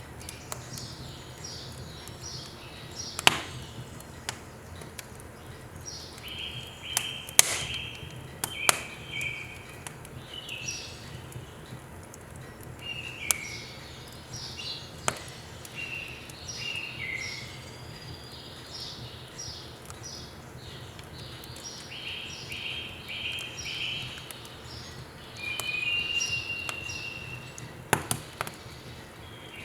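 Firewood burning in a wood stove, crackling with scattered sharp pops, the loudest a cluster of three near the end, while small birds chirp and twitter in short repeated series.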